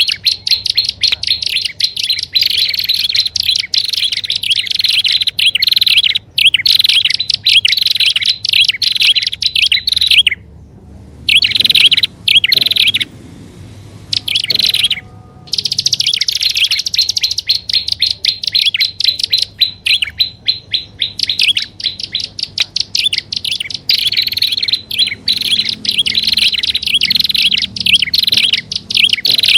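Prinia (prenjak) calls from a bird-lure recording: fast, insistent series of sharp, high chirps, broken by a pause of a few seconds about halfway through before they start again.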